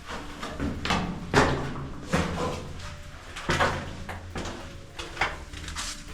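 Footsteps of someone walking through the bunker, an uneven series of short knocks about one to two a second.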